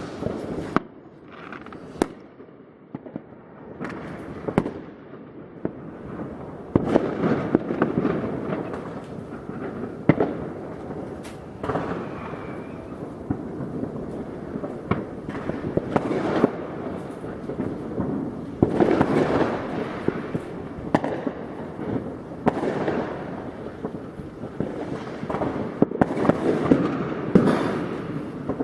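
New Year's Eve fireworks going off over the rooftops: continuous crackling and popping with many sharp bangs at irregular intervals, several firing at once.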